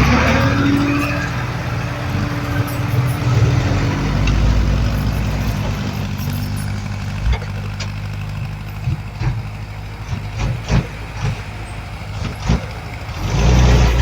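Crawler bulldozer's diesel engine running steadily under load, with scattered knocks and clanks in the second half and a louder surge near the end.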